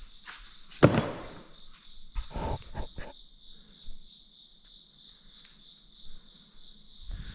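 Crickets chirring steadily in the background at night. A loud thump comes about a second in, and a few knocks follow between two and three seconds in.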